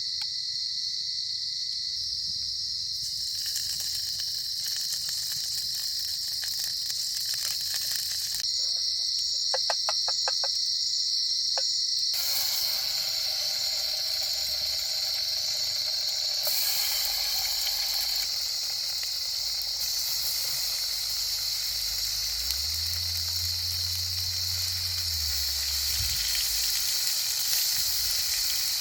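Rainforest insects droning steadily at one high pitch. A hiss underneath changes abruptly several times.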